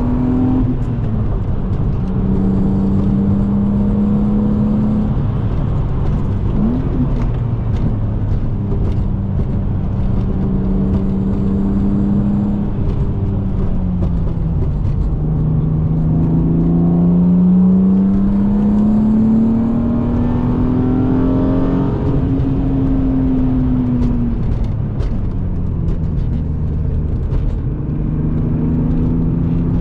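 BMW E36 M3's straight-six engine, heard from inside the cabin while driven hard on track, over steady road noise. Its note holds steady, drops about fourteen seconds in, climbs for several seconds, then falls again near the end.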